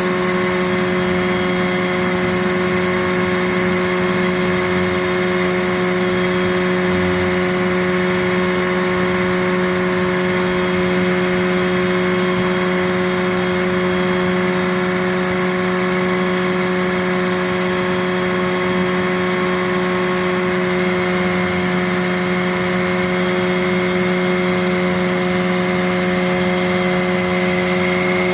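An engine running steadily at constant speed, a continuous drone with a fixed hum and no revving.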